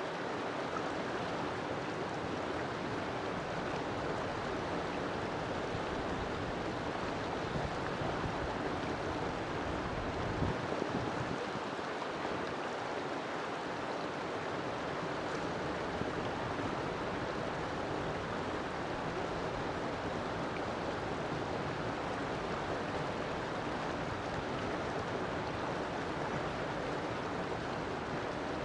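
River water flowing steadily, a constant rushing of running water with a brief swell about ten seconds in.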